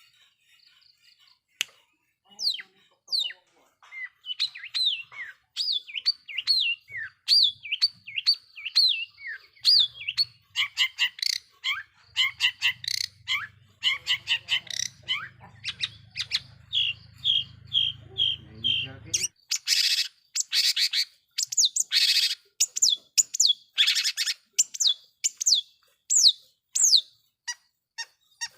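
Long-tailed shrike (cendet) singing: a rapid run of varied chirps and falling whistles. About two-thirds of the way through, the song turns to harsh, rasping calls.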